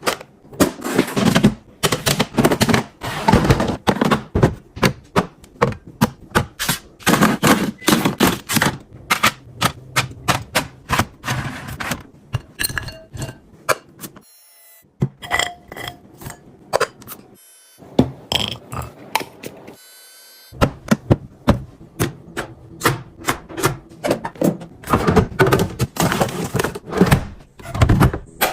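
Repeated thunks, knocks and clatter of food items and storage containers being set down, handled and arranged in a refrigerator, with brief quieter pauses near the middle.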